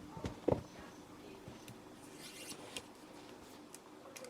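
Kittens playing: two soft knocks about half a second in, then light rustling and a few scattered taps.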